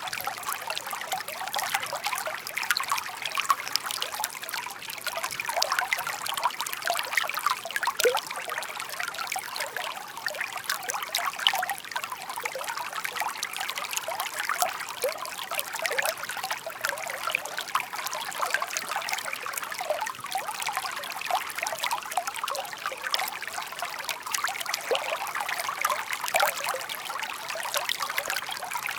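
Shallow stream babbling steadily, water trickling and bubbling over stones, a dense patter of small splashes with no pauses.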